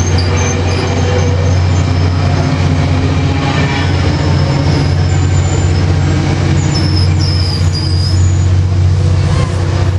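EMD F59PH diesel locomotive running with a steady deep drone, with faint high squeaks around the middle.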